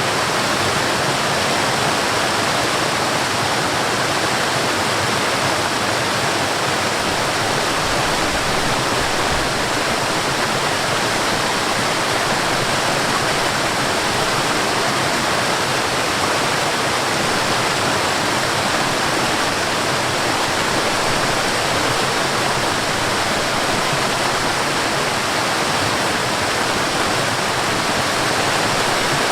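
Water flowing in a stream and spilling over a small waterfall, a steady, even rushing with no breaks.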